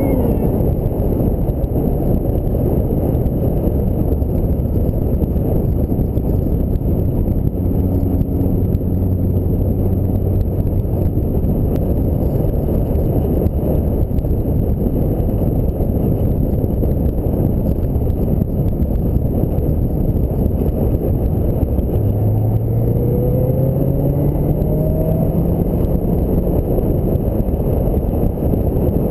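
Ford Mustang SVT Cobra on the move: a steady, heavy rush of wind and road noise, with the engine note faintly underneath. The engine note rises for a few seconds near the end as the car accelerates.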